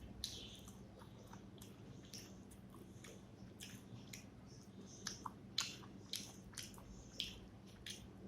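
Close-up chewing of a mouthful of rice and fish curry: wet smacking and clicking mouth sounds, sharper and more frequent in the second half.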